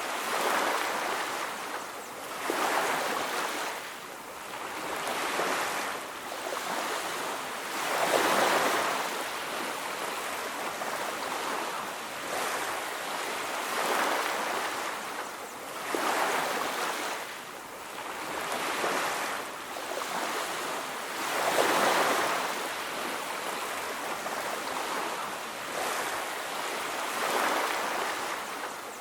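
Ocean surf on a beach: waves breaking and washing up, rising and falling every few seconds, with two bigger waves about eight seconds in and just past twenty seconds.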